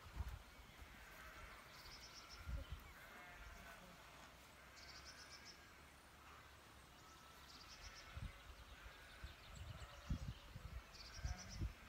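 Faint outdoor ambience of songbirds singing: short, rapid high trills repeated every few seconds over softer warbling, with a few low muffled thumps.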